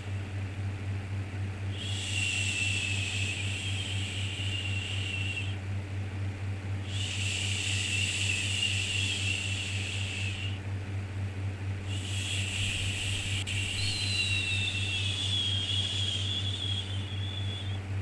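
Long 'shhh' shushing sounds for soothing a baby, three in a row, each several seconds long with short pauses between, over a steady low hum.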